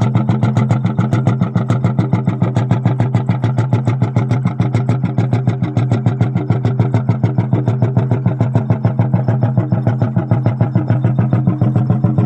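Lanz Buldog tractor's single-cylinder two-stroke hot-bulb engine running steadily, its firing strokes making an even, rapid beat.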